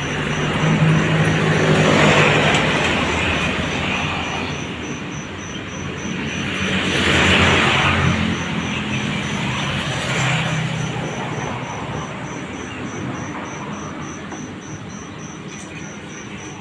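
Road traffic going past: three vehicles in turn swell and fade, about 2, 7 and 10 seconds in. Under them runs a steady, fast-pulsing high-pitched chirping.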